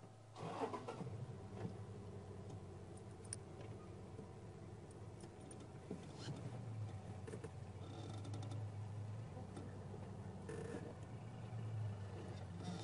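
A vehicle engine starting about half a second in, then idling steadily.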